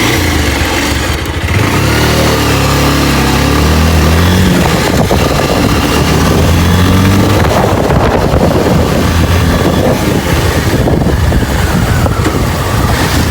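Motorcycle engine pulling away and accelerating, its pitch rising twice with a drop between, as it shifts up a gear.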